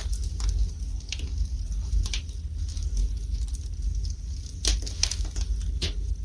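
Wood fire burning in a fireplace: irregular crackling with scattered sharp pops, several of them close together near the end, over a low steady rumble.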